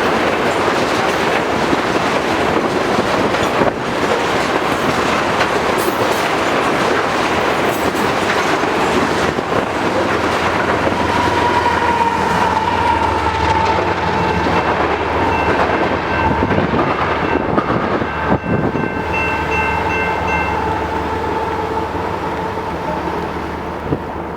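Loaded tank cars of a long freight train rolling past, with the clickety-clack of wheels over rail joints. About halfway through, a low rumble and a high steady whine join in and last until near the end, when the sound eases slightly.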